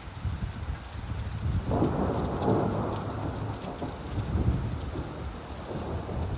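Steady rain with a low rolling rumble of thunder that swells about two seconds in and slowly dies away.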